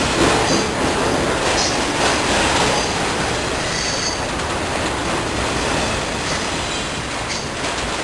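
Train rolling past on the rails: a steady rolling noise with a few brief, high wheel squeals.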